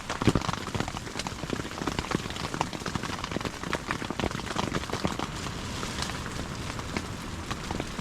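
Heavy rain pattering on a tent, a dense, irregular patter of drop hits.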